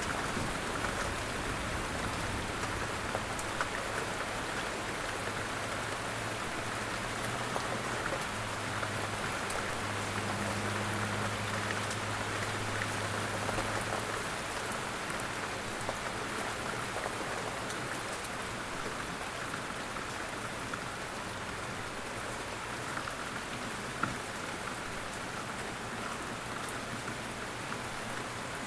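Steady rain falling, with scattered drops ticking. A low rumble underneath stops about halfway through.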